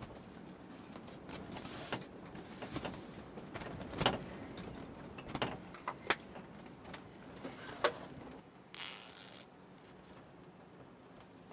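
Light knocks, clicks and short rustles of things being handled, the sharpest knocks about four, five and a half, six and eight seconds in.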